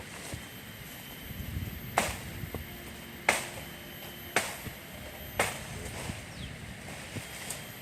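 Four sharp chopping strikes into wood, about a second apart, as with a blade cutting timber during shelter building.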